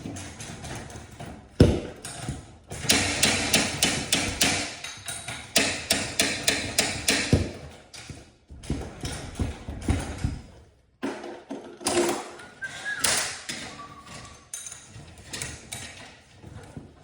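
Rapid, repeated knocking and clanking of hand tools at work on a garage door spring assembly, dense for several seconds, then slower and sparser.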